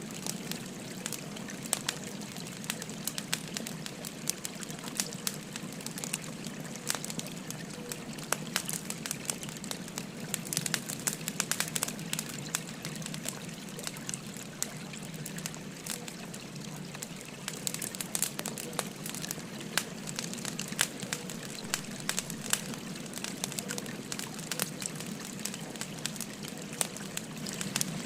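Burning firewood crackling with frequent sharp pops, over the steady babble of a flowing stream.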